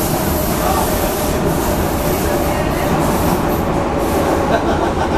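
Prague metro train running between stations: a steady rumble of wheels on rail with a steady whine over it.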